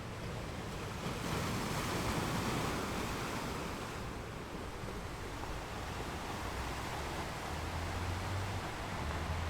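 Ocean surf washing onto a beach: a wave swells about a second in and slowly eases off, and the next one builds near the end with a low rumble.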